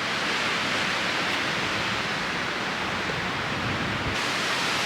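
Strong mountain wind blowing, a steady rushing hiss that brightens suddenly about four seconds in.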